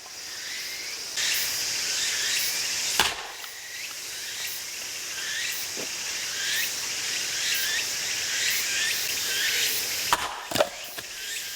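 A 3 kg hammer axe strikes and splits firewood: one sharp crack about three seconds in, and another strike with the split pieces knocking near the end. Under it, insects chirp steadily.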